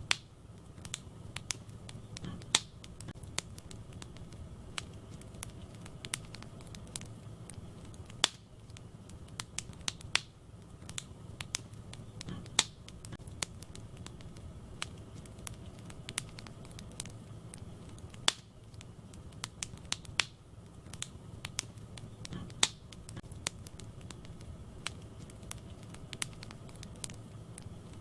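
Wood fire burning in a fireplace, crackling with irregular sharp pops, a handful of them much louder, over a steady low rumble of the flames.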